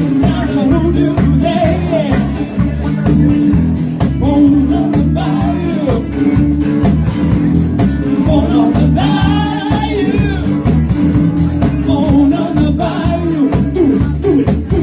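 Live rock band playing a song with singing, over bass, guitar and drums.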